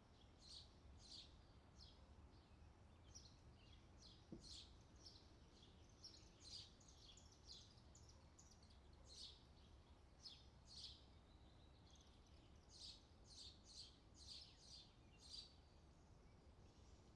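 Faint bird chirps: many short, quick high notes at irregular intervals, over a steady low background rumble.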